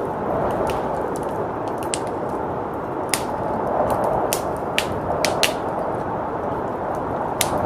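Wood fire crackling, with scattered sharp pops, over a steady rushing blizzard wind.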